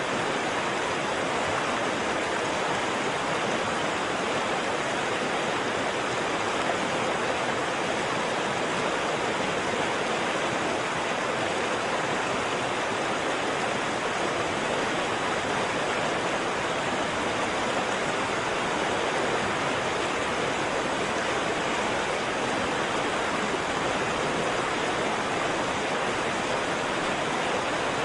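Waterfall: water falling and rushing, a steady even roar with no breaks.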